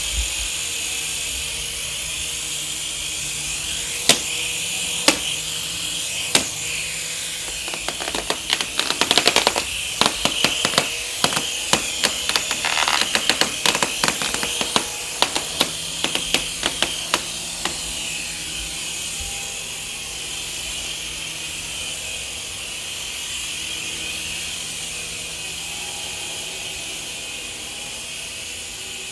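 Small electric motors and rotor blades of a Helizone FireBird 3-channel micro RC helicopter in flight, a steady high-pitched whine. From about four seconds in to about eighteen seconds in, many sharp clicks and ticks sound over it, thickest in the middle, then the whine runs on alone.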